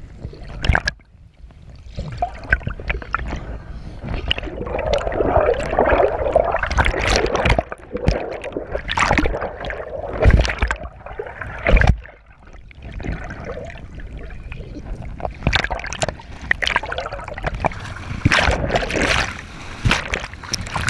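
Water sloshing, gurgling and splashing close around the microphone, in uneven surges with sudden loud splashes.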